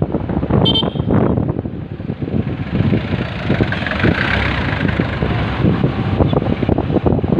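Wind buffeting the microphone while riding a motorcycle, with engine and traffic noise underneath. A short high beep sounds just under a second in.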